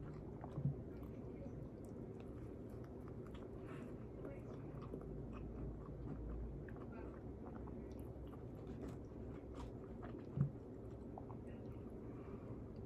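Close-miked chewing and biting of fried chicken and a biscuit, with small crisp clicks and crackles. Two short low thumps stand out, one under a second in and one about ten seconds in.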